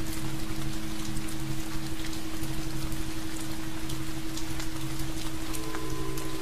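Steady rainfall with scattered drop ticks, over low held tones; a higher tone joins near the end.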